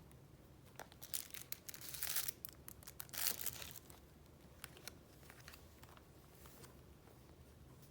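Paper being handled: crinkling, rustling sheets, busiest from about one to three and a half seconds in, followed by a few light taps and small rustles.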